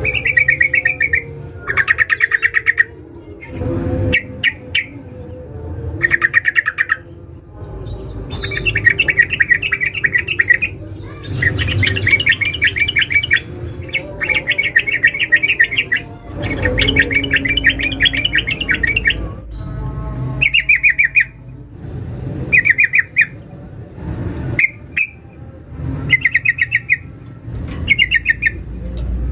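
Yellow-vented bulbul (trucukan) giving fast, rattling chatter calls in bursts of one to three seconds, repeated with short gaps. The call is a female calling to a male.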